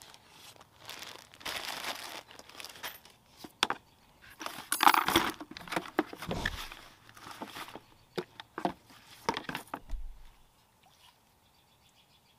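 Objects being handled and rummaged through: irregular rustling, clinks and knocks, with the loudest clatter about five seconds in. It goes quiet for the last couple of seconds.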